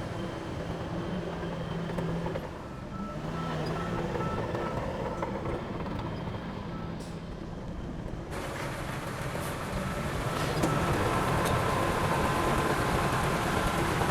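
Heavy diesel earthmoving machinery running steadily, with a reversing alarm beeping in a repeating pattern. About eight seconds in the sound turns abruptly louder and fuller.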